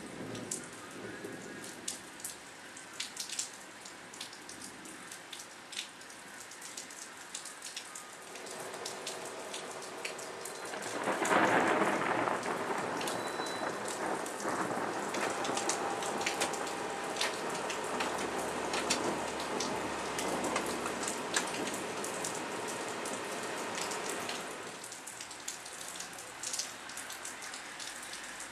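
Thunderstorm: steady rain pattering, with many close drops ticking. About eleven seconds in, a loud rumble of thunder swells up and rolls on for over ten seconds before fading.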